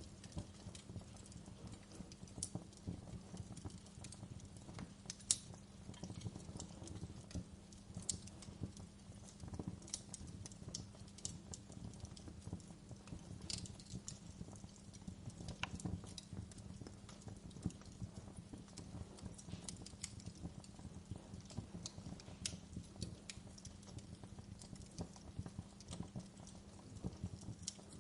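Campfire burning, with irregular crackles and sharp pops over a low steady rumble of the flames.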